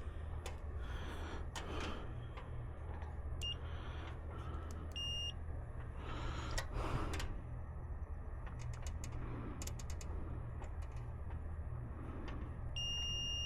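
Multimeter continuity beeper: two short high beeps, then a steady beep from near the end. The steady tone signals continuity between the thermostat wires, a short where wires are touching somewhere. Light clicks and handling noise from the test probes.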